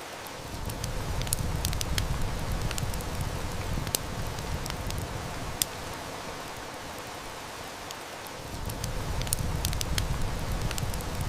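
Steady heavy rain hiss with a wood fire crackling and snapping in sharp, irregular pops; one louder pop comes a little past halfway. A low rumble of distant thunder swells in about a second in, fades before the middle, and builds again near the end.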